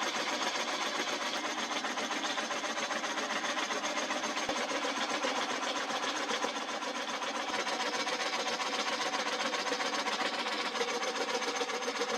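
A power tool running steadily under load, with a fast, even rattle.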